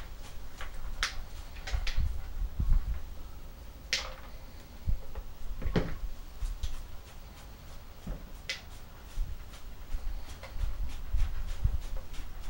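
Spoon and knife scraping pulp and seeds off the inside of a cut pumpkin lid, a string of short scrapes and knocks, some against a plastic bowl, with the two loudest about four and six seconds in. A low rumble runs underneath.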